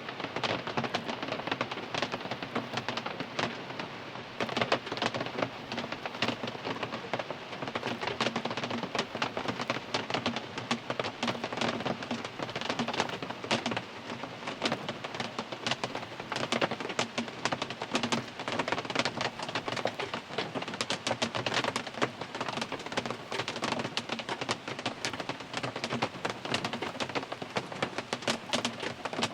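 Rain falling on a car's roof and windscreen, heard from inside the car: a dense, steady patter of countless drops with no letup.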